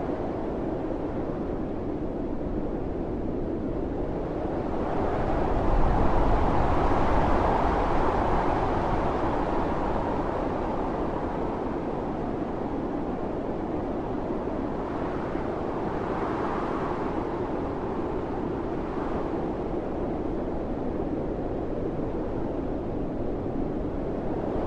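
Strong wind blowing in gusts through a snowstorm, a steady rushing with a louder gust swelling a few seconds in and easing off slowly, then another gust building near the end.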